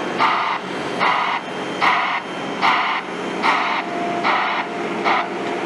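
Broadband reversing alarm on a construction machine, a hissing pulse repeating about every 0.8 s, over the steady hum of the machine's engine; the pulses stop shortly before the end.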